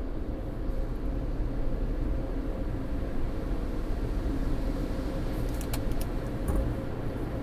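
Tunnel car wash machinery heard from inside the car: a steady low rumble of spraying water and equipment, with a few short sharp clicks or taps around five to six seconds in.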